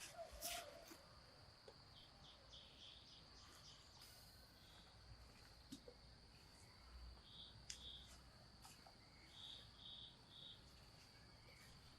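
Faint, steady high-pitched insect drone of crickets, with short chirps in small groups and a few light clicks.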